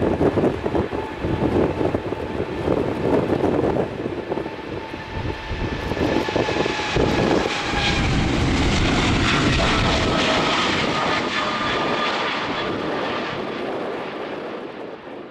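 Jet airliner engines with wind buffeting the microphone. From about six seconds in the jet noise steadies and grows louder, with a whine that slowly falls in pitch.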